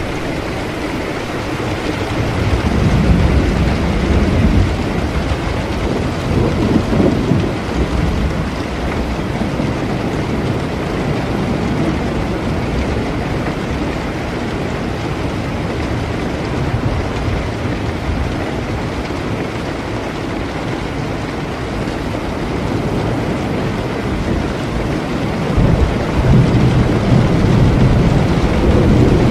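Steady heavy rain with rolling thunder. A low rumble swells a couple of seconds in and lasts several seconds, and a second rumble builds near the end.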